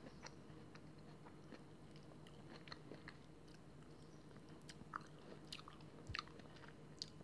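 Faint chewing of a mouthful of soft, juicy nectarine, with a few scattered small mouth clicks.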